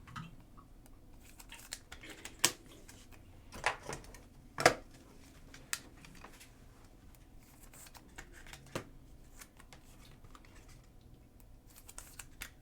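Trading cards being handled at a table: a few scattered sharp clicks and taps, irregularly spaced, with quiet between them.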